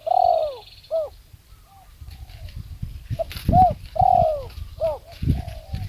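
Spotted dove cooing in two phrases of arched coo notes, one at the start and a second from about three and a half seconds in. A single sharp click comes just before the second phrase, over a low rumbling background.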